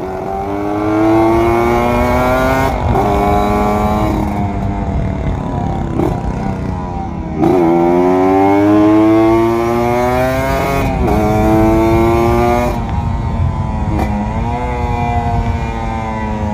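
Kawasaki Ninja RR 150 Super KIPS two-stroke single-cylinder engine accelerating hard through the gears. The pitch climbs, then drops sharply at each shift, several times over.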